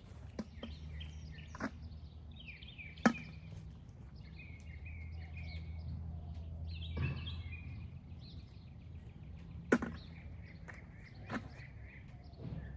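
Sharp clicks, about six spread over the stretch, from snail shells being dropped into a collecting bucket. A bird chirps in the background over a low steady hum.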